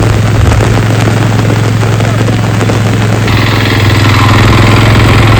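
A motor engine running steadily with a constant low hum, a hissing noise growing louder about three seconds in.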